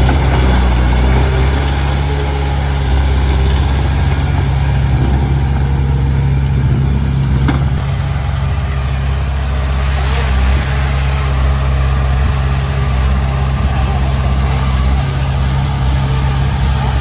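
Heavy diesel engine running steadily. There is a sharp click about seven and a half seconds in and a brief rush of noise around ten seconds.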